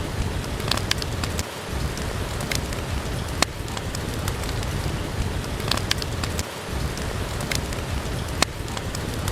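Steady rain with a low rumble, over which a wood fire crackles with sharp, irregular pops. The low rumble drops out briefly twice.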